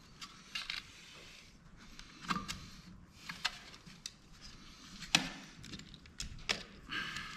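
Scattered clicks and knocks of small plastic and metal camera parts being handled during disassembly, with a few short scraping rasps; the sharpest knock comes about five seconds in.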